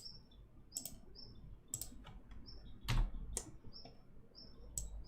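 Computer mouse and keyboard clicks, a dozen or so at irregular intervals, the loudest about three seconds in. Short high chirps repeat faintly between them.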